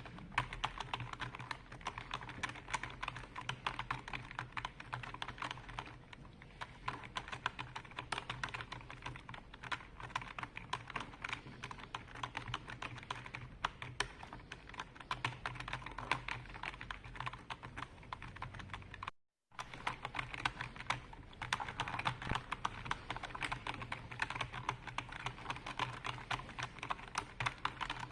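Continuous fast typing on a computer keyboard: a dense stream of key clicks over a low steady hum. The sound cuts out completely for a moment about two-thirds of the way in.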